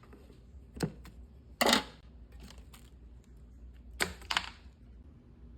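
Handling noises: a few sharp clicks and knocks, with one louder, longer scraping rustle about a second and a half in, as parts and packaging are handled.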